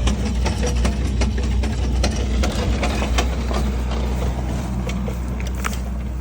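An engine running steadily with a low hum, overlaid with many irregular sharp clicks and rattles, typical of farm machinery at work.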